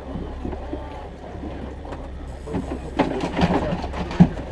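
A boat motor running steadily with a low hum under the trolling boat, with scattered knocks and clatter on the boat growing busier in the second half, and one sharp knock about four seconds in.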